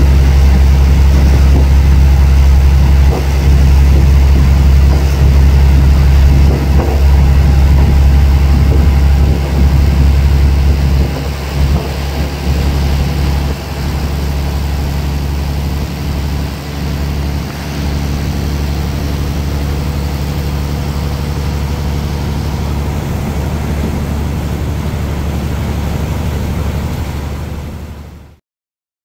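Passenger train running, heard from on board: a loud, steady low rumble of the moving train that drops noticeably about eleven seconds in and then fades out near the end.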